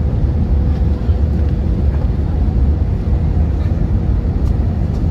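Airliner cabin noise: a steady low rumble with a faint constant tone over it.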